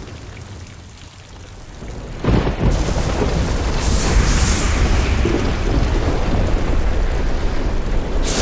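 Sound-designed meteor-storm ambience of thunder-like rumble and heavy rain. A quieter low rumble gives way about two seconds in to a sudden loud crash that runs on as a sustained rumble with rain hiss, and a high whoosh passes over at about four seconds.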